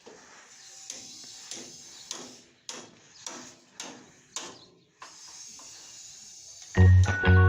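A series of about seven sharp knocks, roughly one every 0.6 seconds, over a steady hiss. Loud music with a steady beat comes in near the end.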